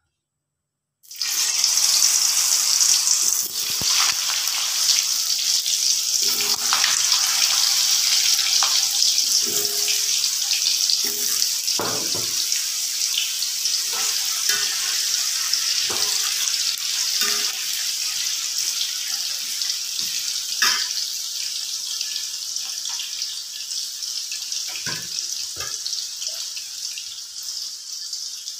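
Potato wedges frying in hot oil in a metal wok: a loud sizzle that starts suddenly about a second in, as they go into the oil, and slowly eases. A spatula knocks against the wok now and then as they are stirred.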